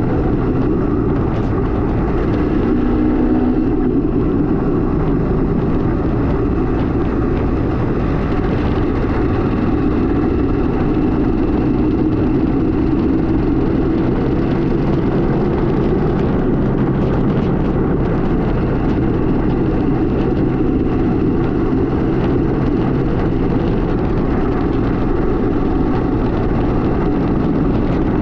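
Kawasaki KMX200's two-stroke single-cylinder engine running steadily while the bike is ridden, over a constant rushing noise.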